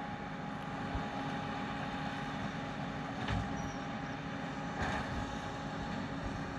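New Holland T7 245 tractor running with a round baler while baling straw: a steady mechanical drone with a thin steady tone over it and a couple of faint knocks about three and five seconds in.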